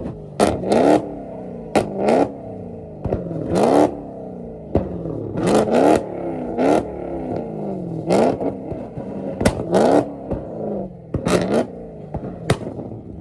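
LS-swapped V8 car engine being revved in about eight short, sharp throttle blips, each a quick rise in pitch falling back to a lumpy idle, with loud cracks from the exhaust at most blips.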